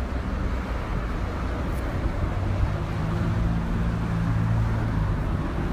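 An engine running steadily under a loud, even rush of wind or water noise, with a deeper hum coming in about three seconds in.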